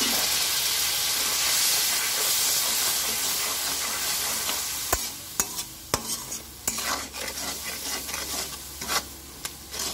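Onion and ground-spice paste frying in oil and a little water in a metal karai: a steady sizzle over the first half, then a spatula scraping and knocking against the pan as the paste is stirred, with the sizzle quieter.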